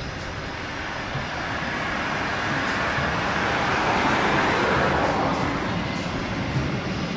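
Jet airliner passing by, its engine roar swelling to a peak about four seconds in and then easing off.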